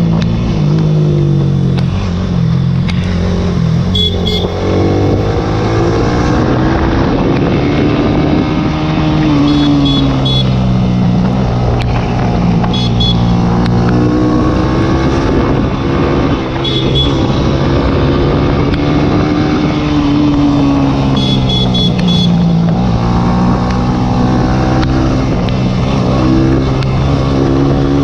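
Small single-cylinder sport motorcycle engine revving hard under acceleration up a hill, its pitch climbing and dropping again and again as it runs up through the rev range and shifts gear.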